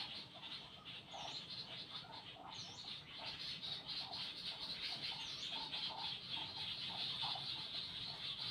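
Birds calling: short calls repeating several times a second, with three brief high chirps, over a steady high-pitched hiss.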